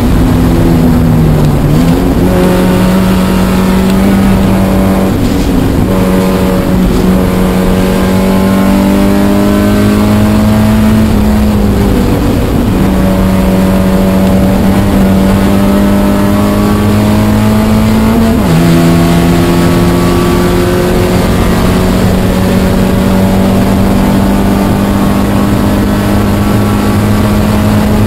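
Spec Miata's four-cylinder race engine, heard from inside the cabin, pulling hard with its pitch climbing steadily. The pitch dips briefly about two seconds in and again about twelve seconds in, drops suddenly at an upshift about eighteen seconds in, then climbs again.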